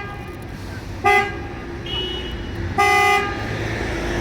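A vehicle horn honks twice, short blasts about two seconds apart, the second a little longer, over a steady traffic rumble.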